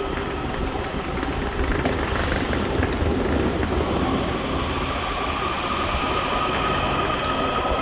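Washington Metro train running on the rails: a steady rumble of wheels on track under a whine that rises slightly in pitch, as a train does when it gathers speed.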